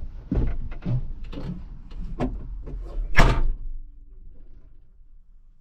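A run of sharp clicks and knocks, then one loud bang about three seconds in, like something being slammed shut. After it the sound fades away.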